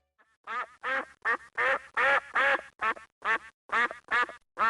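Duck quacking: a rapid series of about ten short quacks, two or three a second, starting about half a second in.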